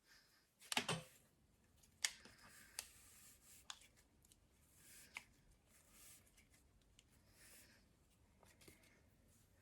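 Near silence, broken by a few faint short clicks and taps in the first five seconds.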